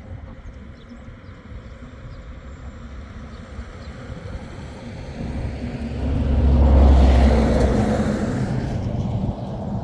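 A road vehicle's engine and tyre noise, a low rumble that builds to its loudest about seven seconds in and then eases off a little.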